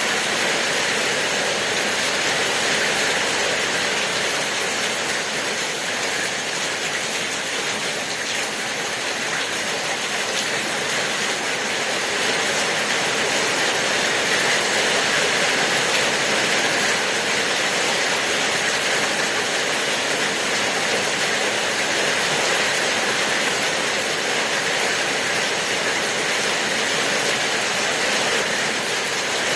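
Steady rain falling, an even hiss of water without pauses. It eases slightly a few seconds in and builds back up.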